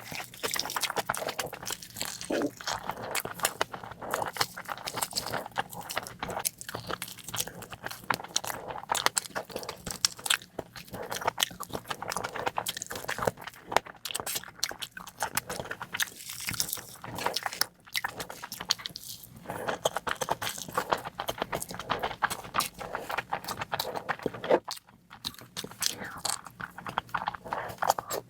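Close-miked eating sounds: a person chewing and biting food, heard as a dense run of rapid mouth clicks.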